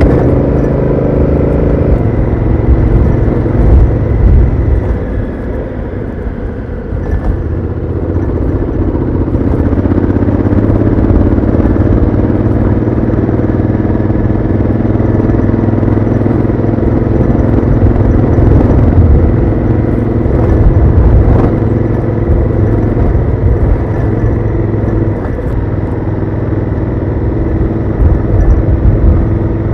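Honda Africa Twin CRF1000L's parallel-twin engine through its stock exhaust, heard onboard while riding. The engine note rises and falls with the throttle, easing off around five to seven seconds in, then pulling again.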